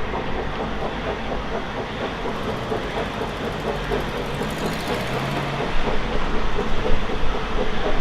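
Narrow-gauge steam train running, with a steady rhythmic clatter.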